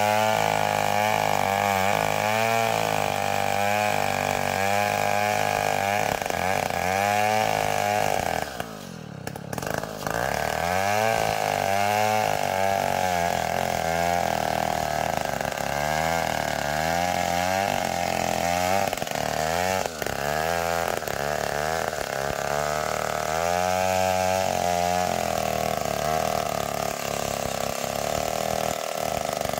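Two-stroke chainsaw cutting ulin (Borneo ironwood) into beams, the engine at high revs under load with its pitch wavering up and down. About nine seconds in the engine drops off briefly, then picks back up to full speed.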